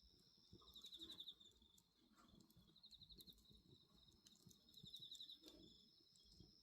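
Crickets trilling steadily, with three louder pulsed chirps about two seconds apart, over the faint crackle and pops of a wood fire.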